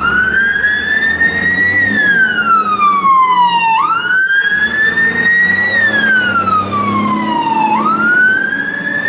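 Toy fire engine's electronic siren wailing: a tone that rises for about two seconds, then slides down for about two seconds and snaps back up, cycling twice.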